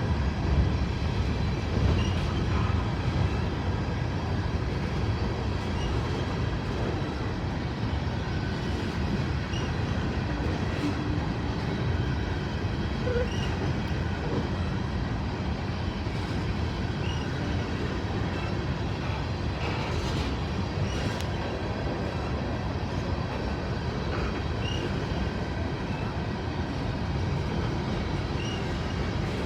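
A train running steadily on the rails: an even, continuous noise with most of its weight low down and a few faint ticks.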